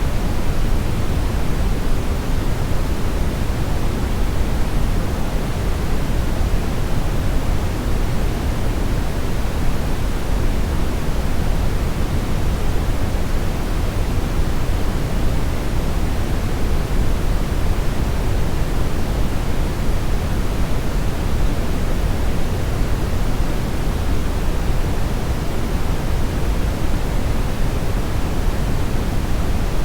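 Steady synthetic brownish noise: an even, featureless hiss weighted heavily toward the low end, with no changes or events.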